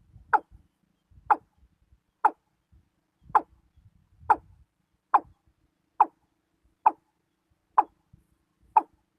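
Watercock calling: a series of short notes about one a second, picking up pace slightly near the end.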